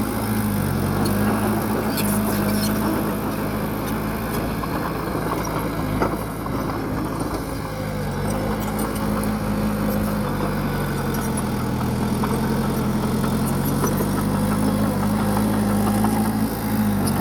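Bulldozer's diesel engine running steadily, its pitch dipping and rising slowly as the load changes, with a few sharp metal clanks.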